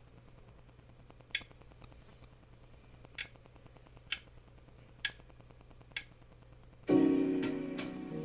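Five finger snaps, about a second apart, count in the tempo. About seven seconds in, the piano of a jazz backing track enters with a sustained chord.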